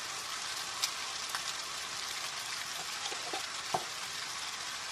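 Chicken pieces frying in oil in a pot, a steady sizzling hiss, with a few faint clicks scattered through it.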